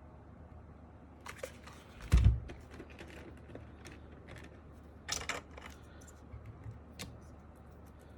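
Hands handling a mechanical keyboard and its parts: scattered light plastic clicks and clatters, a heavy thump about two seconds in, and a short rattling clatter about five seconds in.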